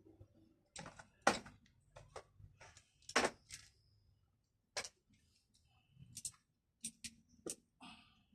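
Irregular clicks and knocks of tools and parts being handled during repair work, about ten sharp taps spaced unevenly over a faint low hum.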